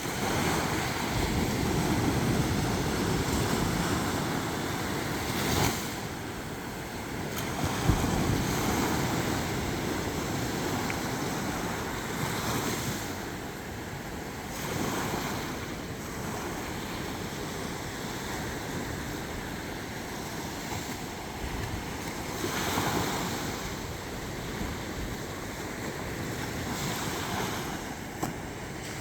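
Sea waves washing onto a shore, swelling and easing every few seconds, with wind rumbling on the microphone.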